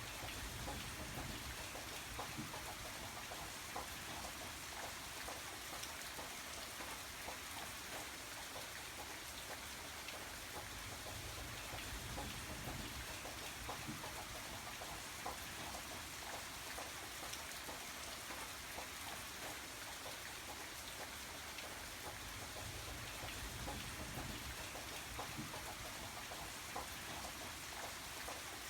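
Steady rain falling, with many separate drops ticking on a surface. A low rumble swells and fades a few times underneath.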